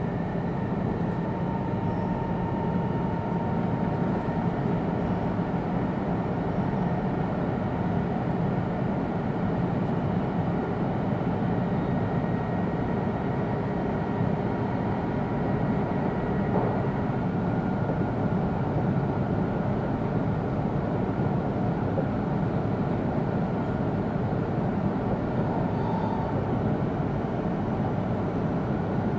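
Steady running noise of an E2 series Shinkansen heard inside the passenger car: an even rumble of wheels on rail with faint steady tones above it, holding a constant level throughout.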